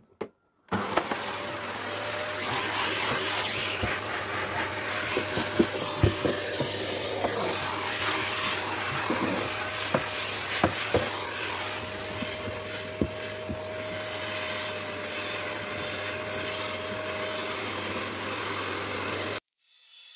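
Vacuum cleaner running with a steady whine, with scattered knocks of the nozzle against surfaces; it starts abruptly about a second in and cuts off suddenly near the end.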